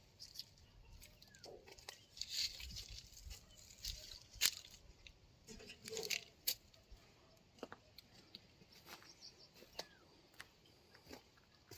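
Scattered clicks, light knocks and rustling of hand work with tools and a cloth during an excavator oil change.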